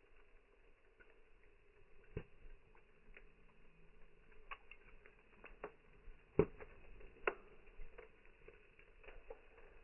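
Wood campfire crackling: scattered sharp snaps and pops at uneven intervals over a faint hiss, the loudest two about six and a half and seven seconds in.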